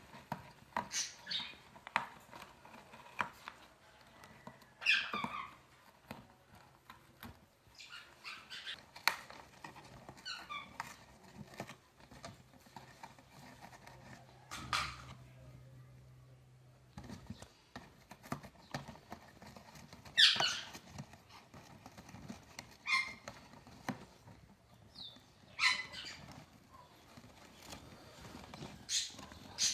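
An Alexandrine parrot and an African grey parrot scuffling over a box: many small taps and scratches of beaks and claws, broken every few seconds by short squawks that fall in pitch, the loudest about two-thirds of the way through.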